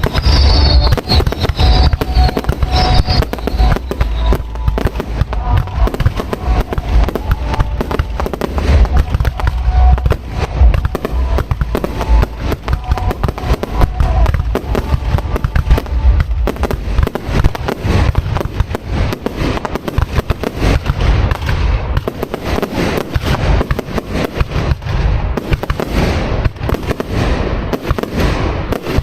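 Fireworks display heard from close to the launch site: a dense, continuous barrage of deep booms and crackling bangs, with high falling tones in the first few seconds.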